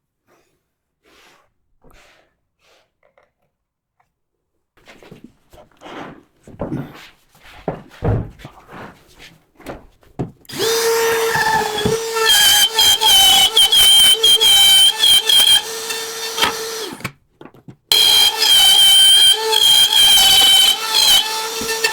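A few light knocks and handling sounds, then about halfway a power drill starts and runs steadily, stops for under a second, and starts again.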